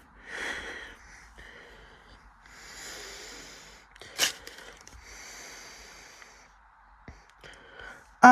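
Soft rustling, breathy noises close to the microphone in several short stretches, with one sharp click about four seconds in.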